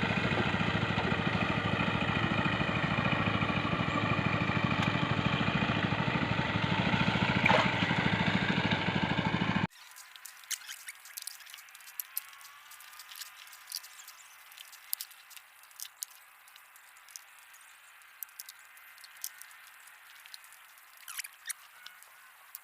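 A small engine running steadily at a constant speed, which cuts off abruptly about ten seconds in. After the cut there are only faint, scattered clicks and ticks.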